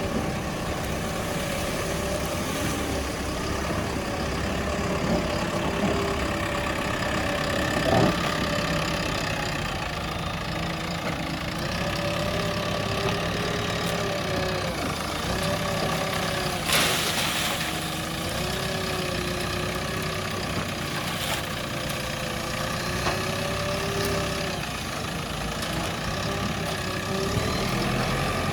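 JCB 3DX backhoe loader's diesel engine running under varying load, its pitch rising and falling repeatedly as the loader works its front bucket. Two brief sharp noises stand out, about eight and seventeen seconds in.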